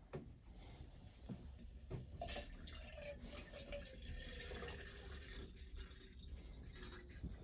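Water pouring or running, starting about two seconds in after a few faint clicks.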